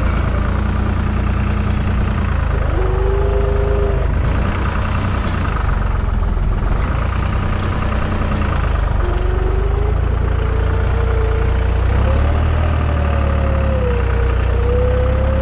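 Deutz 55F tractor's diesel engine running steadily while working a field cultivator. A whining tone comes in briefly about three seconds in and again from about nine seconds on, slowly rising, and the engine's low drone grows heavier about twelve seconds in.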